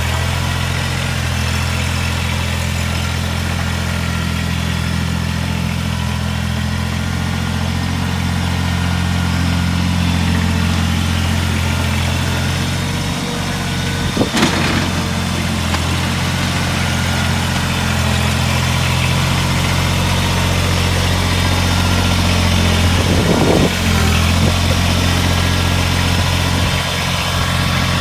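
Kubota BX2380 sub-compact tractor's three-cylinder diesel engine running steadily while it plows snow with its front blade. There are brief knocks about halfway through and a short clatter near the end.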